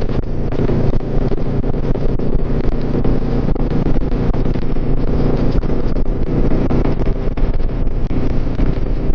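Suzuki Boulevard C50's V-twin engine running steadily at cruising speed, with wind buffeting the microphone.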